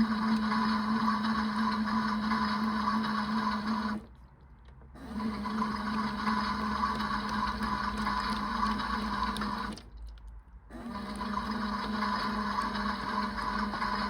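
Small electric motor of a toy washing machine turning its drum through a wash, with water in it. It runs with a steady hum, stops twice for about a second, and starts again each time.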